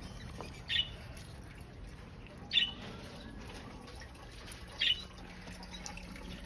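A caged pet bird giving three short, high chirps, about two seconds apart.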